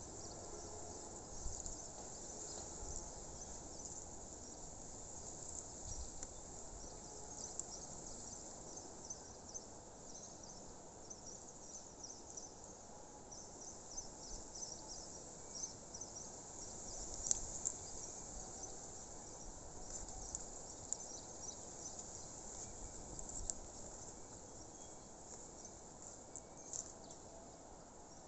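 Nature ambience: a continuous dense layer of rapid, high-pitched chirping, with a few louder chirps around the middle, over a soft low rumble.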